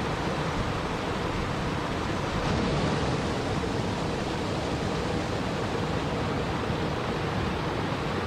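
Steady rushing water, an even hiss with a slight swell about three seconds in.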